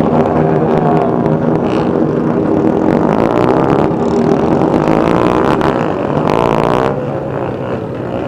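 Many motorcycle engines running together in a slow procession, their pitches rising and falling and crossing as the bikes speed up and slow down. A short burst of hiss comes about six seconds in, and the engines get a little quieter near the end.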